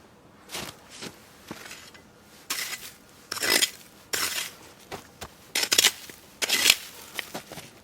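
A series of short, irregular scraping and clattering noises of objects being handled, the loudest in the middle and near the end.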